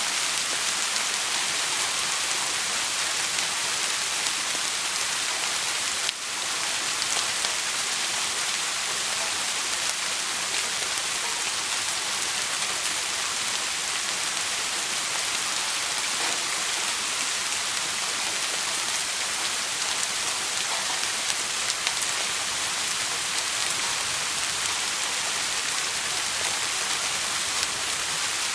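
Steady rain falling, a dense even hiss with faint scattered drop ticks, dipping briefly about six seconds in.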